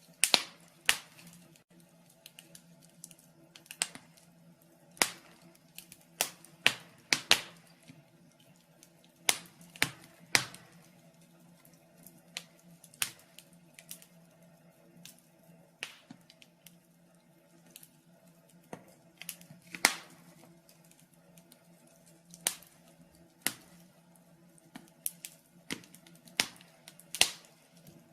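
Wood fire in a fireplace crackling: irregular sharp pops and snaps, one or two a second, some much louder than others, over a faint steady hum.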